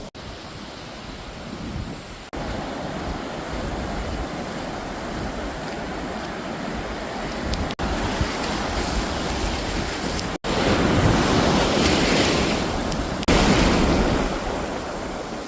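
Sea waves washing and breaking on the shore, with wind on the microphone. The sound cuts off and restarts at a different level several times, louder in the second half.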